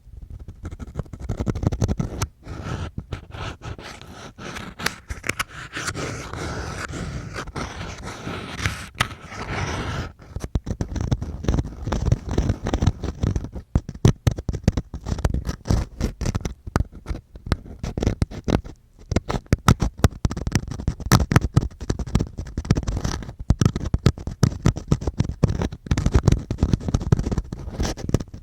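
ASMR ear-cleaning sounds close to the microphone: dense continuous scratching for about the first ten seconds, then quick separate scraping strokes.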